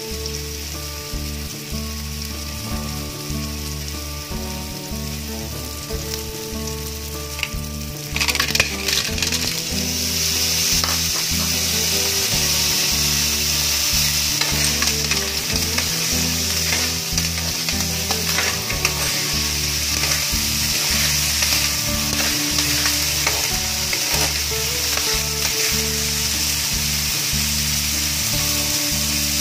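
Garlic, shallot and ginger sizzling in a hot wok. About eight seconds in there is a brief clatter as clams in their shells go in, and the sizzle then grows louder and stays that way.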